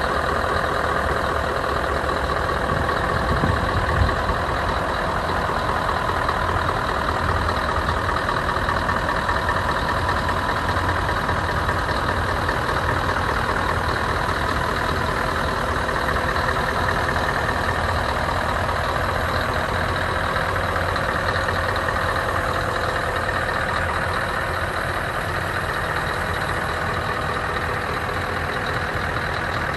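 Scania R 560's V8 diesel engine running steadily at idle, with one short thump about four seconds in.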